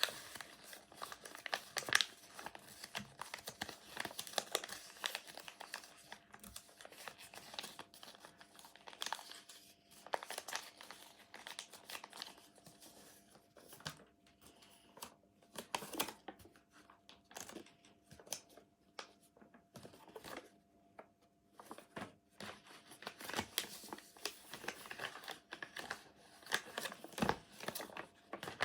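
Sheet of paper being folded and creased by hand, with irregular crinkles and rustles, busier at the start and near the end and sparser in the middle.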